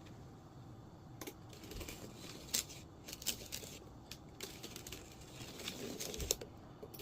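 Tape being pulled off the roll, torn and pressed down: irregular sharp clicks and short rips, the loudest about two and a half seconds in.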